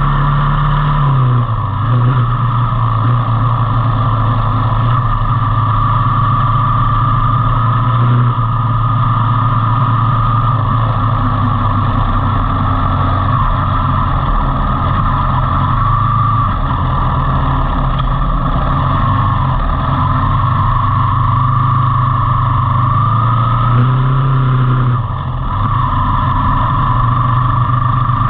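Motorcycle engine running under way, its pitch shifting up and down with the throttle, with a brief drop in level about 25 seconds in.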